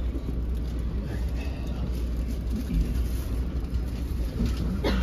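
Steady low rumble inside an NJ Transit Multilevel commuter rail coach, with faint passenger voices over it.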